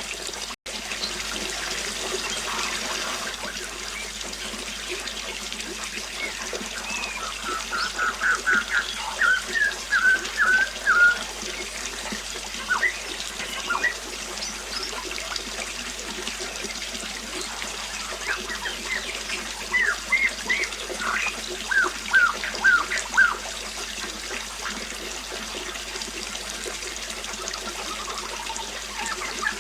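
Water trickling steadily, with birds chirping in two bouts of quick, short repeated notes, about eight and twenty seconds in.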